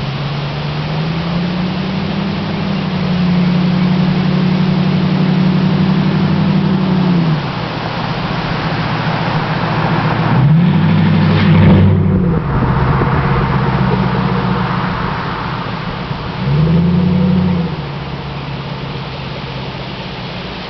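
Ford Crown Victoria Police Interceptor's 4.6-litre V8 running loud with no mufflers. Its pitch climbs near the start and holds for several seconds, then two more bursts of throttle come about ten and sixteen seconds in, each dropping back afterwards.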